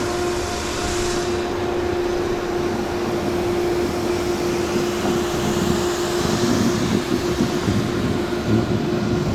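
Steady rush of wind over the microphone while snowboarding downhill, with the board sliding and scraping over hard-packed, icy snow and a steady low hum underneath.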